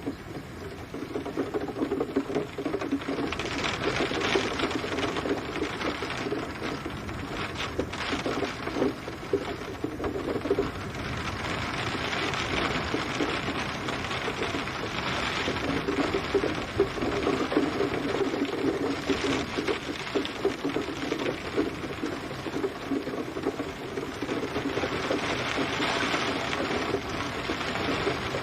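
Rain pattering on a hard surface: a dense, steady crackle of individual drops that swells and eases every few seconds.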